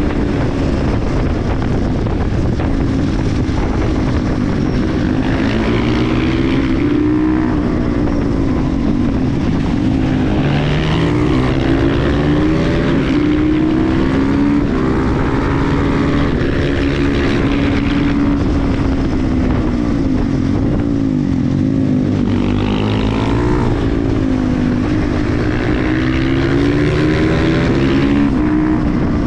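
KTM 350 EXC-F single-cylinder four-stroke engine under way, its note rising and falling again and again as the bike accelerates and slows.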